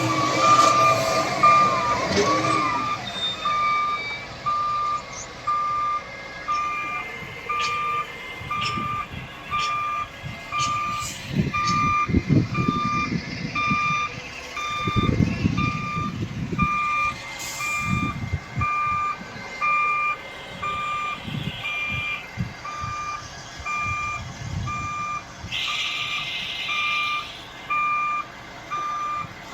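Reversing alarm on a heavy machine beeping steadily about once a second, over the rumble of diesel engines working and revving in surges.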